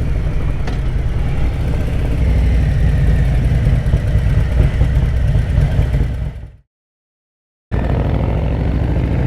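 Harley-Davidson motorcycle running down the road, with a heavy low wind rumble on the microphone. The sound fades out to silence for about a second just past the middle, then the engine comes back, its pitch rising slowly as it accelerates near the end.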